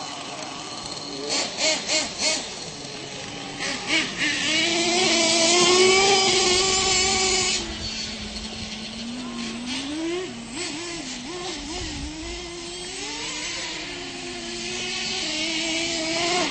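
Radio-controlled monster trucks' motors revving up and down, their pitch rising, falling and wobbling. A quick run of sharp clacks comes about two seconds in, and a loud hiss builds between about four and seven seconds.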